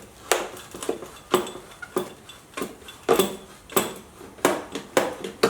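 Irregular metal clicks and clinks, about one or two a second, from a hand tool working the bolt on a motorcycle's exhaust clamp as the exhaust is taken off.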